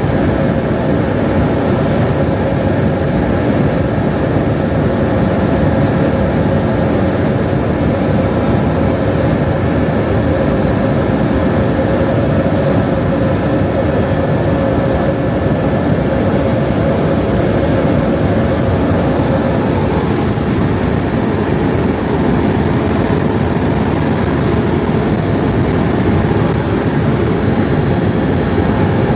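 Helicopter in flight: a steady, loud drone of engine and rotor with a constant whine over it, one tone in the whine easing about two-thirds of the way through.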